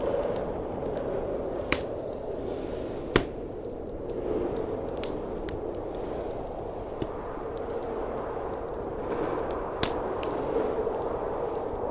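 Wood fire crackling, with a few sharp pops (the loudest about three seconds in), over the steady roar of blizzard wind.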